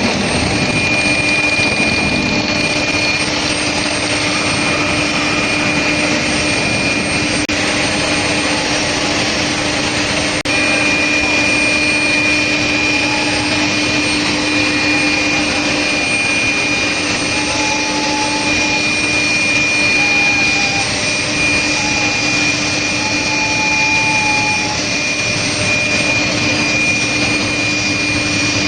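Steel plate induction hardening line running steadily: loud machine noise carrying a constant high-pitched whine and a lower hum.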